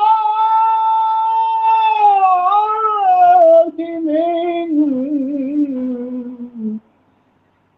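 A man's solo voice chanting a long melismatic phrase of an Islamic religious supplication. A high note is held, then slowly descends through wavering ornamented turns and breaks off just before seven seconds in, followed by a second of silence.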